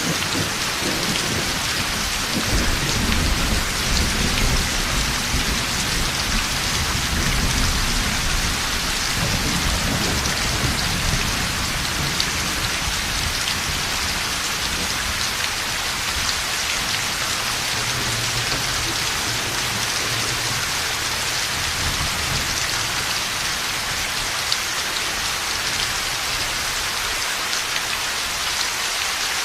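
Heavy rain falling steadily, with a long low rumble of thunder that rolls through most of the stretch and dies away near the end.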